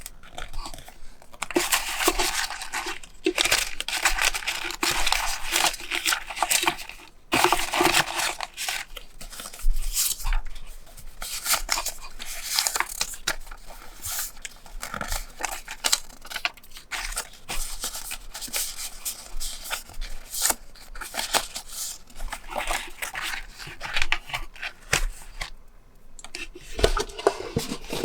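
Paper being handled close up: tearing and crinkling in repeated, irregular strokes with small sharp crackles.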